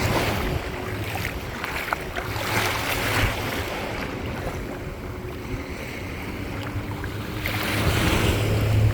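Water washing in waves at the water's edge, swelling and ebbing a few times, with wind rumbling on the microphone.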